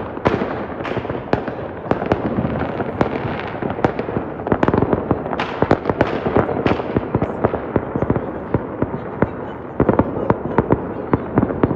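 Fireworks display: a dense, continuous run of bangs and crackling bursts, one close after another.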